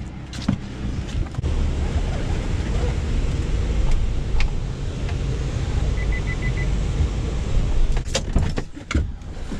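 Van engine running as the van is driven, with a quick run of short electronic beeps about six seconds in and a few clicks and knocks near the end.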